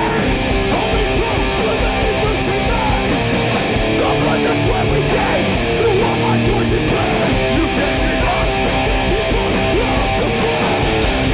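Hardcore punk band playing live at full volume: loud distorted electric guitars with no vocals.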